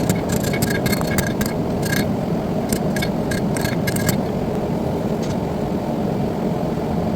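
Steady roaring rush, like a gas forge burner, with irregular light metallic clinks and taps, several a second, some ringing briefly; the clinks thin out after about four seconds.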